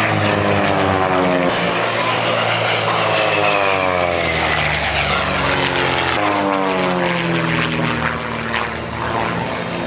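Propeller-driven light aircraft flying past, its engine and propeller drone dropping in pitch as it goes by, twice.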